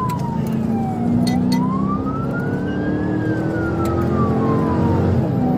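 Police car siren in a slow wail: it falls to its low point about a second in, rises for about two seconds, then falls again. Under it is the steady engine and road noise of a car at speed.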